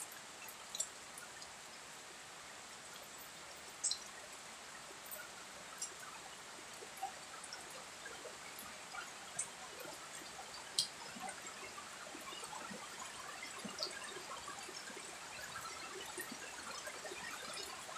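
Steady rain falling on garden foliage, with scattered sharp drips of drops landing close by. The rain grows slightly heavier in the second half.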